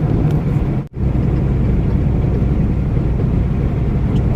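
Steady low drone of a semi-truck's engine and road noise heard inside the cab while driving, with a brief dropout in the audio about a second in.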